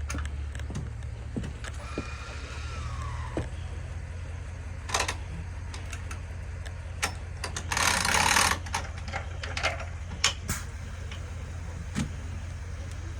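Cadillac Escalade SUV engine running with a steady low hum while it moves the boat trailer toward the water. Scattered clicks and knocks sound over it, with a brief falling whistle about two seconds in and a short hiss about eight seconds in.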